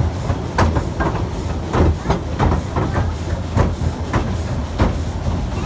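Efteling's narrow-gauge steam train running on its track: a steady low rumble with a regular clatter, about two and a half beats a second.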